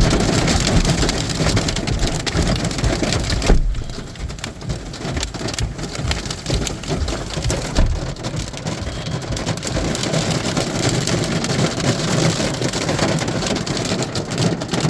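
Hail and heavy rain pelting down, a dense clatter of many small impacts. There is a sharp knock about three and a half seconds in, after which the clatter is somewhat quieter.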